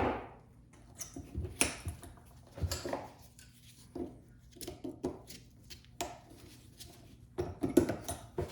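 Scattered light metal clicks and taps of needle-nose pliers and a chisel working at a stuck U-joint retaining clip on a driveshaft yoke, with a small cluster of taps near the end.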